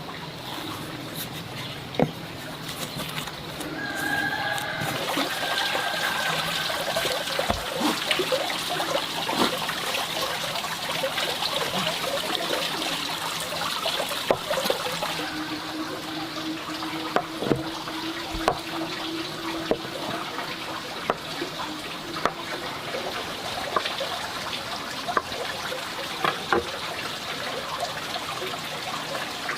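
Rice cakes deep-frying in hot oil: a steady sizzle with frequent sharp pops and crackles.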